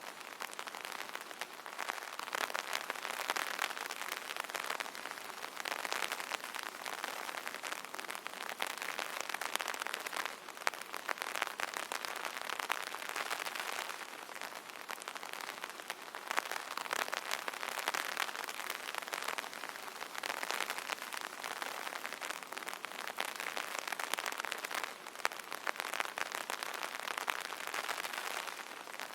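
Rain falling steadily on an umbrella: a dense patter of drops on the taut canopy, swelling and easing a little every few seconds.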